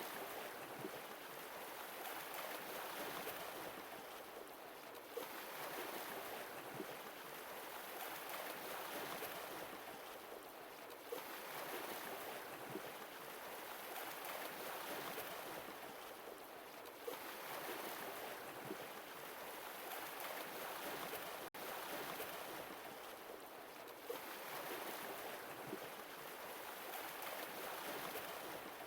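Sea waves washing in and receding, one swell about every six seconds.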